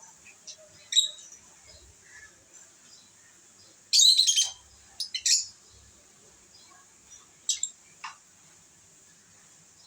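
Pet lovebirds giving short, shrill chirps: a few single calls, with the loudest burst of chirping about four seconds in.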